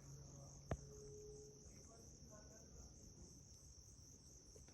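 Faint, steady high-pitched chorus of insects, crickets or similar, with a single sharp click under a second in.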